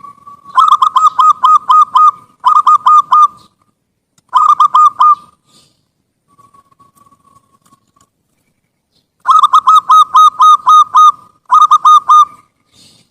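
Zebra dove (perkutut) song: bouts of quick, evenly repeated cooing notes, about five a second, three bouts in the first five seconds and two more after a pause of about four seconds.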